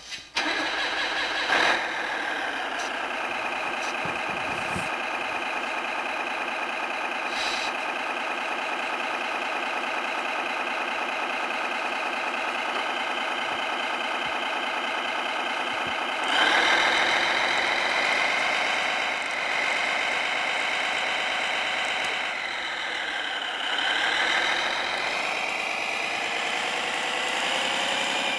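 Servonaut SMX sound module in a Kyosho Blizzard RC snowcat playing a simulated diesel engine: it starts up, settles into a steady idle, then revs up about sixteen seconds in and rises and falls in pitch near the end.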